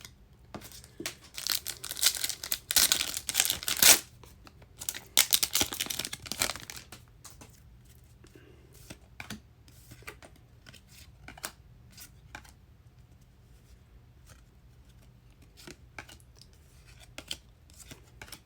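A foil trading-card pack being torn open, its wrapper crinkling loudly for the first several seconds, followed by faint scattered clicks and taps of the cards being handled.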